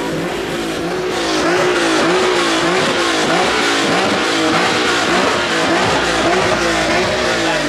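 A car engine revving hard, held at high revs with its pitch wavering up and down, over a loud raspy exhaust noise.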